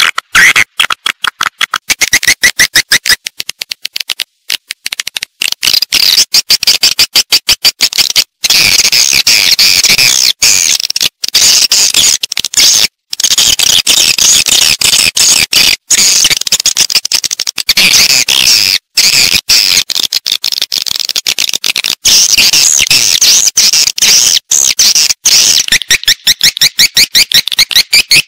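Edible-nest swiftlet calls played as a swiftlet-house lure: a dense, loud twittering of very rapid, high chirps and clicks, many to the second, broken by brief pauses.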